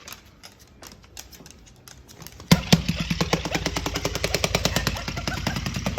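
A vibrating toy starts up suddenly about two and a half seconds in and rattles with fast, even strokes. A few faint clicks come before it.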